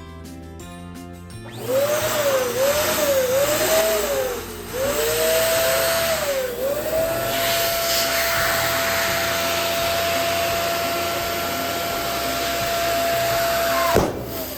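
Electric balloon pump blowing air into a balloon: a steady rushing hiss with a whine that wavers at first and then holds one pitch. Near the end a single sharp pop cuts it off.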